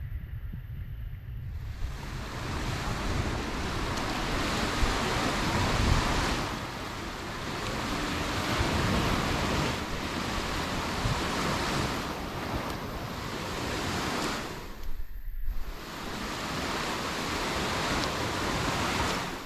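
Sea waves breaking and washing up the beach, swelling and ebbing every few seconds, with wind rumbling on the microphone.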